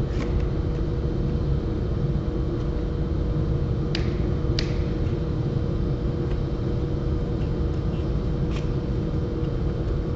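Quick-release speed clamps clicking as they are set on a plywood board: two sharp clicks a little over four seconds in and a fainter one later. Under them runs a steady low rumble with a faint hum.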